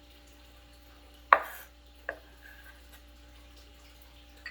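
Two knocks of a kitchen knife or utensil on a cutting board: a sharp loud one about a second in and a lighter one about two seconds in, over a steady faint hum.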